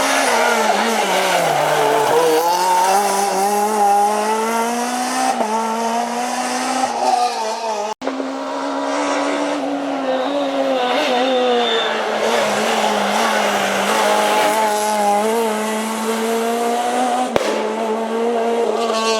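Renault Clio R3 rally car's 2.0-litre four-cylinder engine at full effort, its pitch climbing and dropping with throttle and gear changes. It cuts off abruptly about eight seconds in and picks up straight away on another run.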